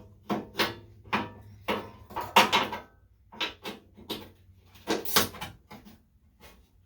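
A spanner working a rusted bumper bolt on a Classic Mini: a run of irregular sharp metal clicks and scrapes, loudest about two and a half and five seconds in. The bolt is spinning in place instead of coming loose.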